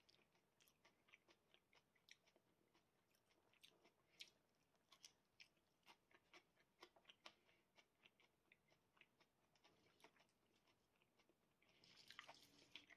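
Faint, irregular crunching of a person chewing raw komatsuna flower stalks, with a brief denser rustling noise near the end.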